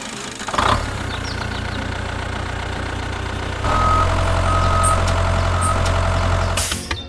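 Vehicle engine running steadily. It gets louder about halfway through, with three short high beeps, then cuts off suddenly near the end.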